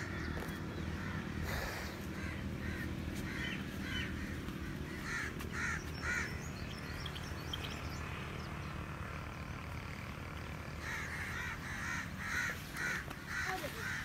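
Birds calling in groups of quick repeated calls: near the start, around five to six seconds in, and again over the last three seconds. A low steady rumble runs underneath.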